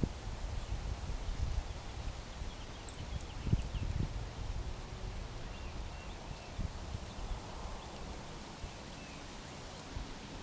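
Small backyard birds chirping faintly in short, scattered calls, over a steady low rustling rumble with occasional soft thumps.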